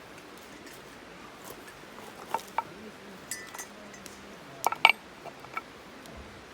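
A handful of light clinks and knocks of hard objects being handled, scattered from about two seconds in, the loudest pair just before five seconds, some ringing briefly, over a steady faint hiss.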